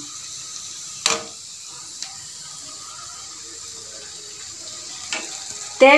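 Chopped onion and capsicum frying in oil in a pan, a steady sizzling hiss, with one sharp knock about a second in.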